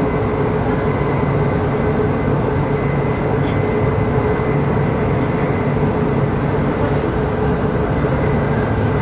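Inside a CRH6A electric multiple unit running at steady speed: a loud, steady rumble of running noise with a faint steady whine held throughout.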